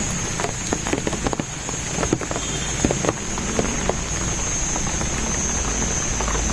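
Rain falling, with drops tapping on surfaces in quick irregular ticks that thin out after about four seconds. A steady high-pitched tone runs underneath.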